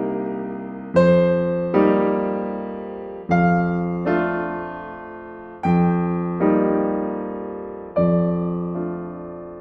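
Slow, gentle solo piano music. Chords come in pairs, the second under a second after the first, a pair about every two and a half seconds, each left to ring and fade.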